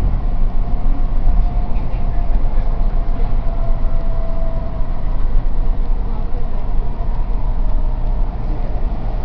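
Canada Line train running on its track: a steady rumble of wheels and car body, with a faint whine through the middle seconds.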